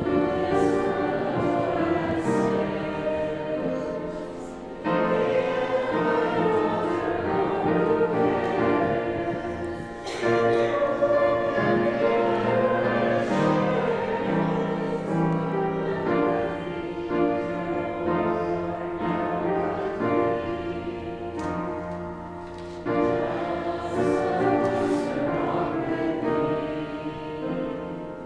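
A congregation singing a hymn with instrumental accompaniment, in sustained phrases with short breaks between the lines.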